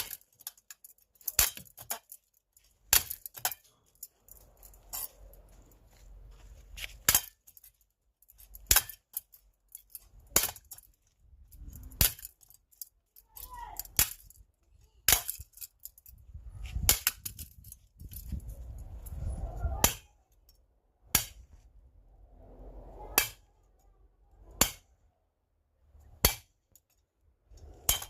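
A bat striking a ceiling fan over and over, about eighteen sharp hits, one every one and a half to two seconds, with rumbling and scraping of the fan parts between blows.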